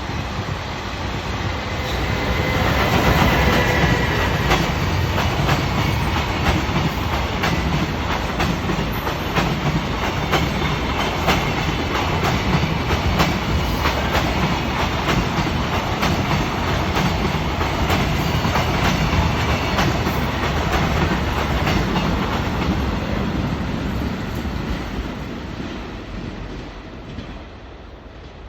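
A Japanese freight train of Koki container wagons behind an EF210 electric locomotive rolling past, with a steady rumble and wheels clicking over the rail joints. It grows louder a few seconds in and fades near the end as the train draws away.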